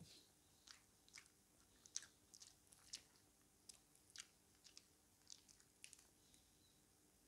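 Close-miked mouth sounds of a person chewing chicken: irregular wet clicks and soft crunches, a few each second.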